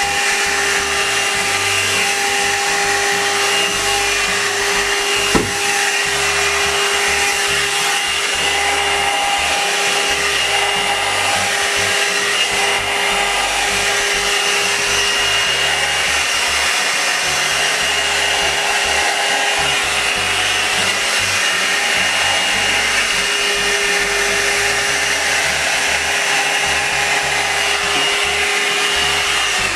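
Hot-air blow dryer brush running on its high setting: a loud steady rush of air with a constant motor whine, switched off abruptly at the end. A single sharp click about five seconds in.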